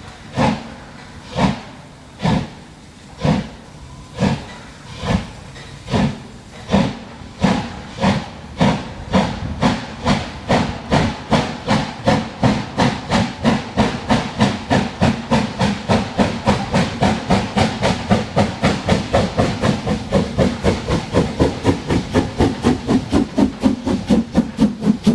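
Steam locomotive pulling away, its exhaust chuffing in evenly spaced beats that speed up steadily from about one a second to about four a second, with a hiss of steam building beneath.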